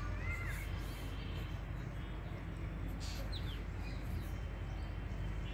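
A few short bird chirps over a steady low background rumble: an arched chirp just after the start and a quick pair of falling chirps about three seconds in.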